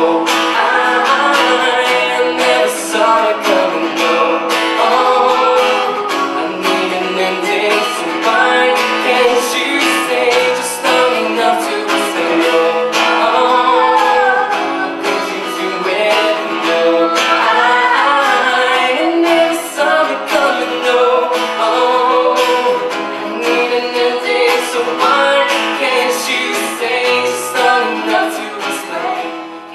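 Live acoustic pop-rock cover song: strummed acoustic guitar with singing over it, easing off at the very end.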